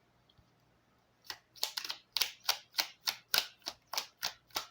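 A deck of cards shuffled by hand: a quick, even run of about a dozen sharp papery slaps, roughly three a second, starting a little over a second in.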